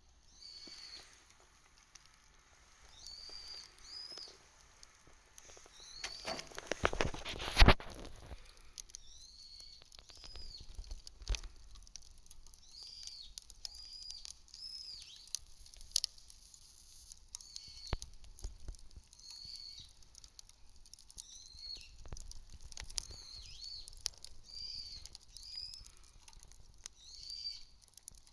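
A wood campfire crackling with scattered small pops and clicks, and a louder cluster of crackling and knocks about six to eight seconds in. A bird's short, high chirp repeats every second or two throughout.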